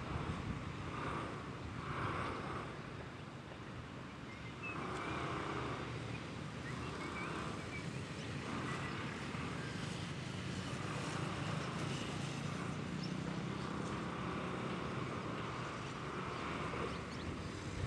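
Outdoor ambience with a steady low rumble of wind on the phone's microphone, and faint bird calls recurring every second or two.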